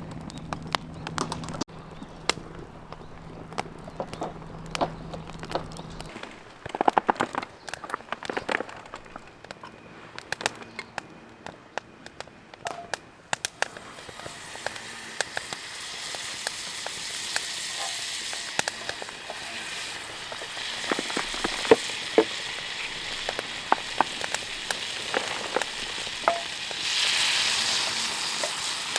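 Wood campfire crackling with scattered sharp pops. From about halfway a frying sizzle builds up, growing louder near the end. A low steady hum runs under the first few seconds and then stops.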